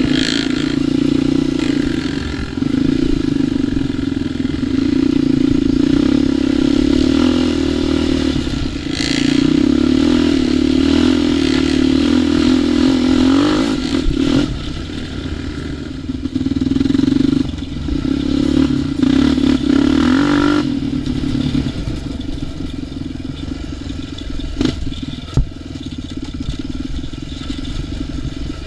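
ATV engine running on a trail ride, its note rising and falling with the throttle, then easing off to a quieter run about twenty seconds in. A single sharp knock near the end.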